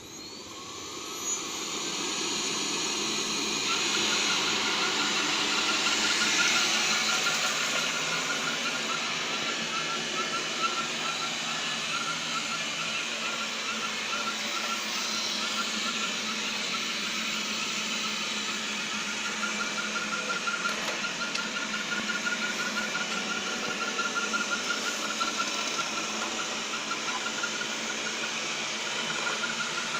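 Xiaomi vacuum cleaner running with an abnormal, steady high-pitched squeal over its motor noise. The machine starts up about a second in, and the squeal settles in a few seconds later.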